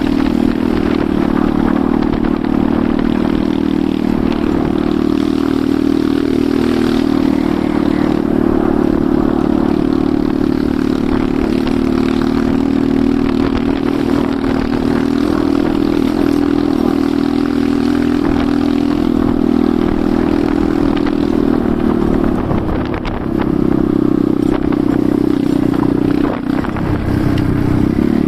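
Enduro motorcycle engine running steadily under throttle while riding, easing off briefly twice near the end before picking up again.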